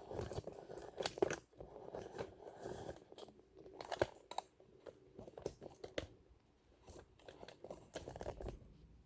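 Irregular small clicks, scrapes and rustling as hands handle and open parts of a vintage all-metal sewing machine during cleaning.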